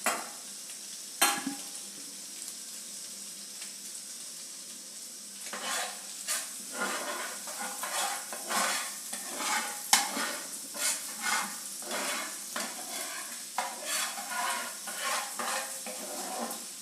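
Chillies, ginger and green turmeric sizzling in re-used egg-frying oil in a pan, which is foaming up. Two sharp knocks sound in the first second or so. From about five seconds in, a spatula stirs and scrapes the pan in quick repeated strokes.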